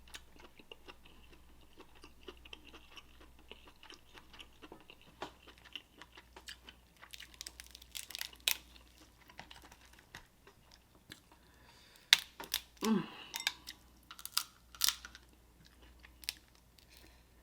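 Close-miked chewing and wet mouth clicks of a person eating seafood boil, getting louder and busier after about twelve seconds, with a short hummed sound partway through that stretch.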